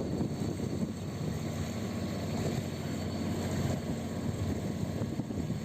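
Steady, low engine drone with an even hum, unchanging throughout.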